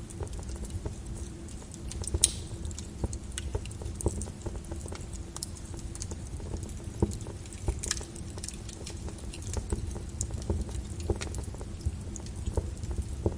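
Flowing lava crackling and popping: irregular sharp cracks, a few louder ones, over a steady low rumble.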